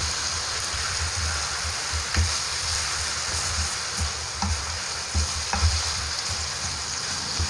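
Chicken pieces frying in a wok with salty soy sauce just added, sizzling steadily while being turned with a wooden spatula that knocks and scrapes against the pan at irregular intervals.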